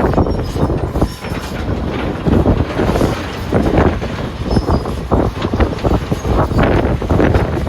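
Heavy wheel loader working rocks: a loud, low machine rumble runs under a clatter of irregular knocks and bangs.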